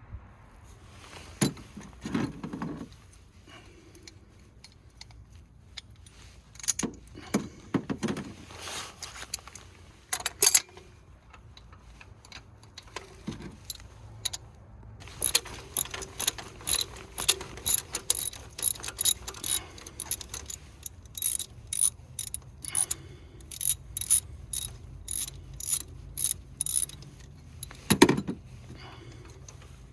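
Ratchet wrench clicking in a long run of quick, even clicks while turning spark plugs out of the engine, with scattered metal clunks of tools before it and one more near the end.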